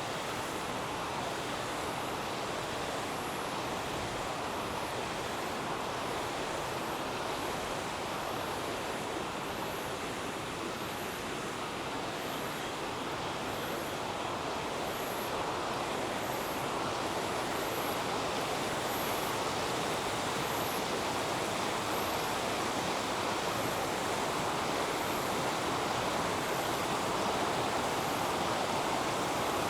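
River water rushing steadily, a little louder in the second half. A faint high chirp repeats about once a second.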